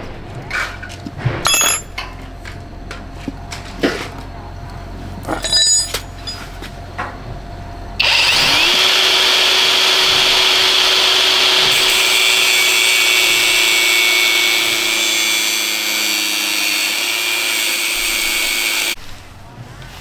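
Tools knocking and clinking on metal for several seconds. Then a power tool starts with a quick rise in motor pitch, runs steadily and loudly for about eleven seconds, and cuts off just before the end.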